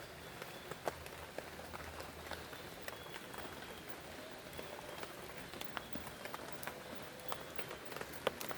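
Steady rain falling, with frequent sharp, irregular drops tapping on a nearby surface.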